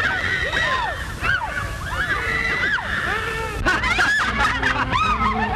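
Several voices shrieking and exclaiming over one another in a commotion, with short rising-and-falling cries crowding the whole stretch.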